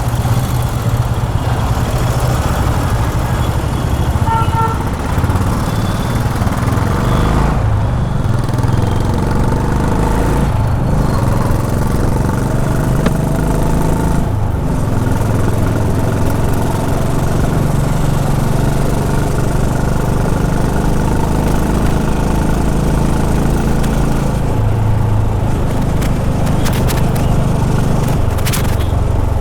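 Honda H'ness CB350's air-cooled single-cylinder engine running under way in traffic, its note shifting in pitch and dipping briefly three times, as with throttle lifts. A short two-tone beep sounds about four seconds in.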